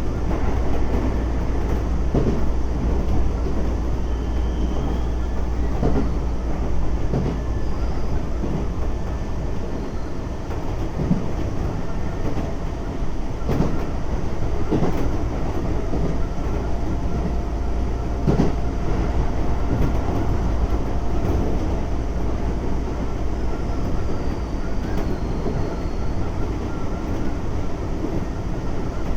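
Running noise inside a Keisei 3400 series electric train at speed: a steady rumble, with wheels clicking over rail joints every few seconds.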